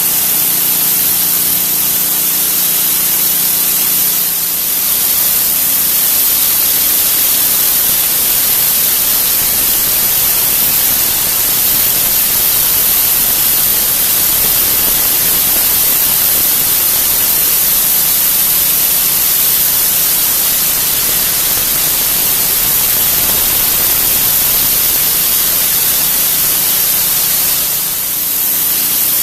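Pressure washer jet spraying on concrete: a loud, steady hiss, with a faint low hum underneath in the first few seconds and again near the end.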